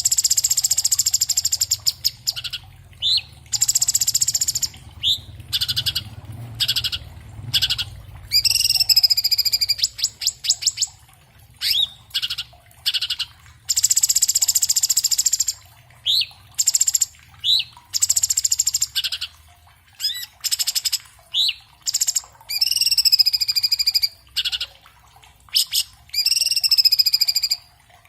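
Orange-bellied leafbird (cucak cungkok) singing a fast, dense song. Harsh buzzy rasps alternate with short rising whistles and sliding whistled phrases, with only brief gaps between them.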